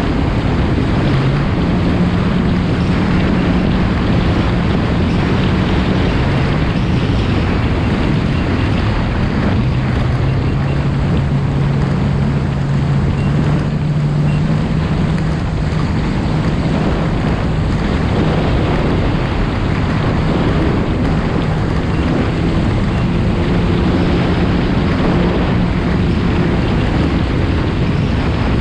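Yamaha FX SVHO personal watercraft's supercharged four-stroke engine running under way, with heavy wind buffeting on the microphone and rushing water. The engine note dips about ten seconds in and then climbs back steadily with the throttle.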